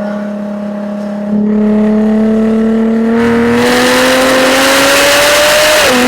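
2013 Jaguar F-Type V6 S's supercharged 3.0-litre V6 and exhaust under acceleration: a steady note that gets louder about a second in, then climbs slowly in pitch under load, with a hiss growing from about halfway. A short dip and step in pitch near the end marks an upshift.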